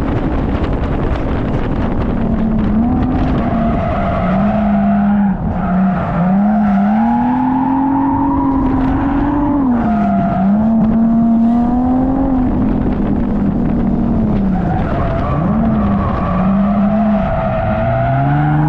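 Car engine held high in the revs, its pitch rising and falling over and over as the throttle is worked through a drift, with a few sharp dips. Tyres skid and hiss underneath.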